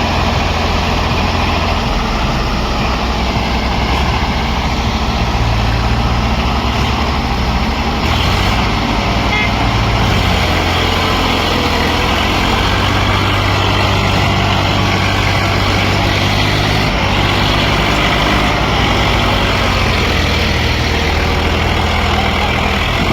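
Swaraj 855 tractor's diesel engine running, its speed stepping up and down several times.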